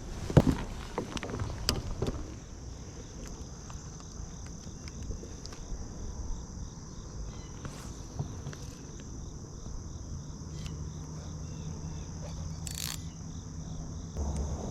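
Steady high-pitched chorus of insects droning without a break. A few sharp knocks and clatter come in the first two seconds and one more near the end, and a faint low hum joins about two-thirds of the way through.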